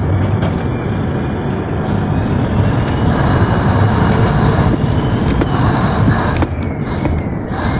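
Tugboat's engines running under a loud, steady rumble, mixed with strong wind noise.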